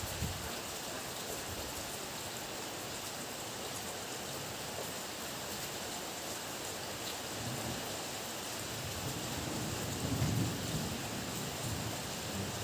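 Steady heavy rain hissing, with a low roll of thunder that builds about two-thirds of the way through, peaks and then fades.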